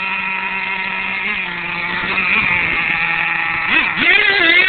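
Small two-stroke nitro glow engine of an R/C monster truck running at high revs with a steady whine, its pitch dipping slightly about a second in and then dropping and rising sharply near the end.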